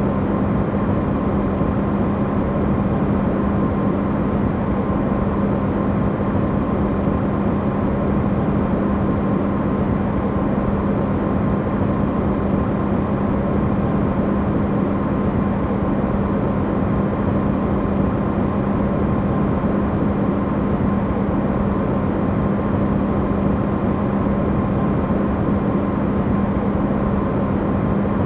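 Electrolux refrigerator running, recorded amplified: a steady low hum under an even rushing noise, unchanging in level.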